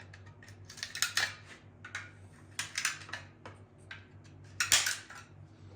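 Scattered metal clicks and clinks of hand tools and parts, from the distributor cap being fastened down on a small-block Chevy 350. The loudest clatter comes near the end, over a steady low hum.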